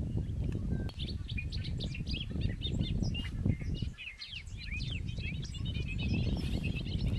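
Several birds chirping and twittering, many short quick calls overlapping, with a steady low rumble underneath that drops away briefly about four seconds in.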